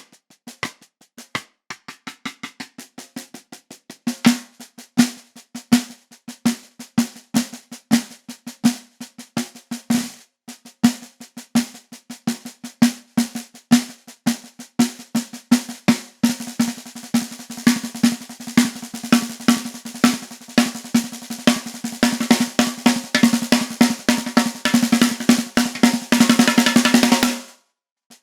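Peace SD524MP-602 13-inch by 5½-inch maple snare drum played with sticks: separate strokes that get louder about four seconds in, then quicken into a roll that swells and cuts off abruptly near the end.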